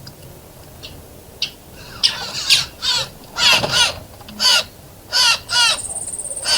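A bird giving a run of harsh, cawing calls, about two a second, beginning about two seconds in after a few faint chips. A thin, high buzzy trill joins in near the end.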